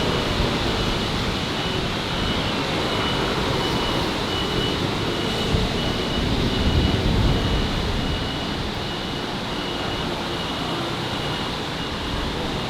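Steady city street traffic noise that swells briefly in the middle as a vehicle goes by. A high beep pulses about twice a second throughout.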